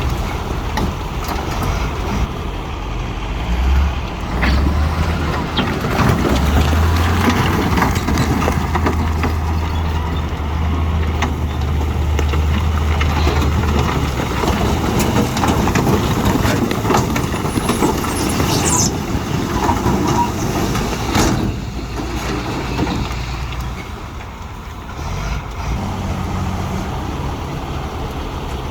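Heavy diesel construction machinery working: a low engine drone that is strongest for the first half, with scattered knocks and clatter. A short high squeal comes about two-thirds of the way through.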